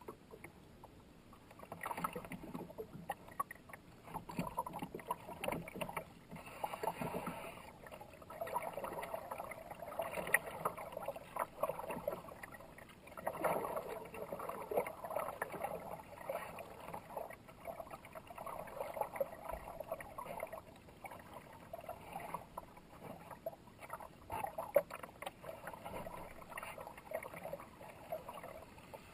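Kayak paddle strokes dipping and splashing in moving river water, in a steady rhythm of swells every second or two.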